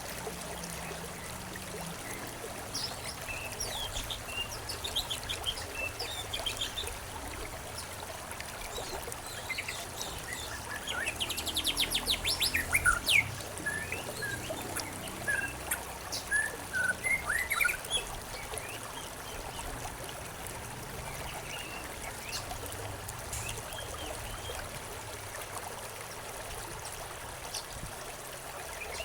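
Several songbirds chirping and trilling over a steady trickle of running water. The birds are busiest in the middle, with a fast high trill and a run of short chirps, and thin out towards the end while the water runs on.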